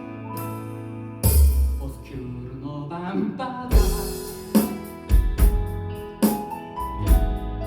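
Instrumental music from a live band: keyboard or piano chords over a sustained bass, with drum hits coming in about a second in and then repeating at a steady beat.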